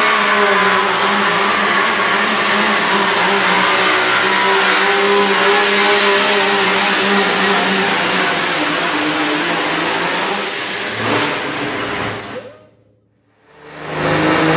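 Turbocharged diesel pickup truck engine running hard under load in a truck pull, with a high steady turbo whistle over the engine note. The sound fades away about twelve seconds in and comes back near the end.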